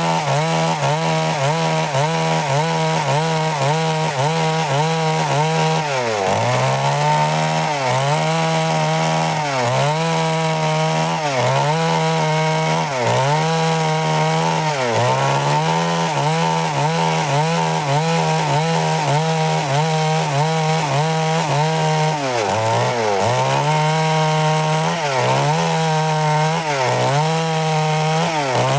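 Stihl MS 382 two-stroke chainsaw running at high revs while cutting through wood. Its pitch keeps dipping and recovering every second or two as the chain loads up in the cut.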